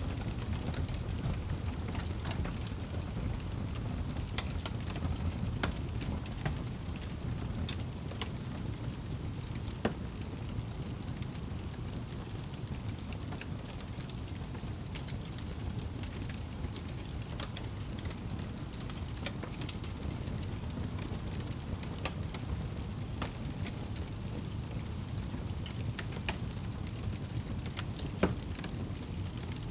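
Wood fire burning in a fireplace: a steady low rumble of the flames with scattered sharp crackles and pops of the logs, a louder pop near the end.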